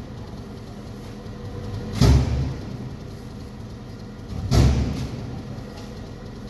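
Heavy sacks of rice dropped onto a stack, two dull thuds about two and a half seconds apart, over the steady hum of an idling engine.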